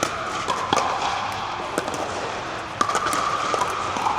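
Pickleball play: sharp pops of paddles striking the plastic ball and the ball bouncing on the court, irregular and overlapping from several courts, over a steady background hubbub.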